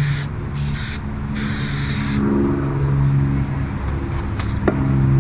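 Three short hissing sprays in the first two seconds, over a steady low hum.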